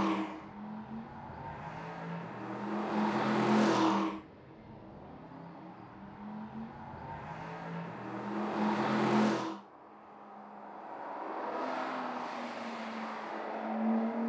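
Porsche Panamera 4S E-Hybrid's twin-turbo V6 running under load as the car drives past three times, each pass swelling in loudness with a rising hiss of tyres and wind. The first two passes cut off suddenly, and in the last the engine note climbs slightly in pitch.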